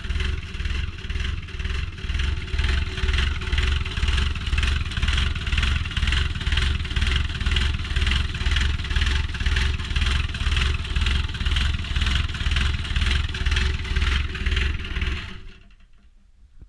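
Takeuchi TB180FR excavator's diesel engine running rough at a very low idle, pulsing about twice a second, then dying suddenly about fifteen seconds in. The idle has sagged far below normal and the engine stalls on its own, which the owner takes for the fuel injection pump starving it of fuel.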